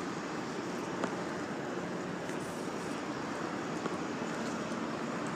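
Steady traffic noise: a continuous even hiss of passing vehicles, with a faint click about a second in.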